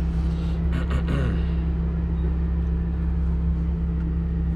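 Lamborghini Huracán's V10 engine idling with a steady low drone.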